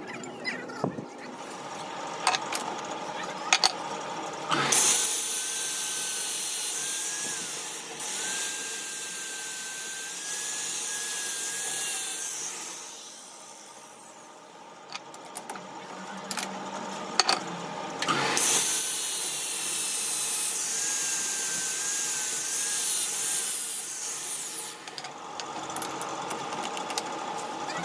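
A power tool running in two long stretches, a hissing noise with a wavering high whine, with scattered clicks and knocks between them.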